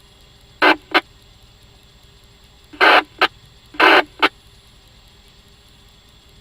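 Two-way radio squelch: three short bursts of static, each followed a moment later by a brief squelch-tail click, with no voice coming through.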